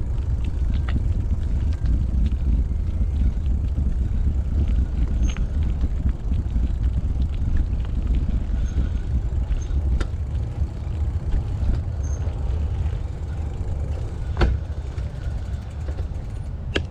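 Steady, loud wind rumble on the microphone while riding a mountain bike, with tyre noise, a few light clicks and rattles, and one sharper knock near the end.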